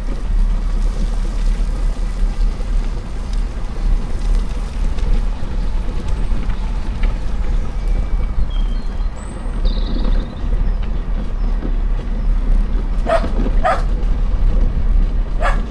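A steady low rumble while moving along, with faint birdsong chirping high above it. Near the end a dog barks three short times.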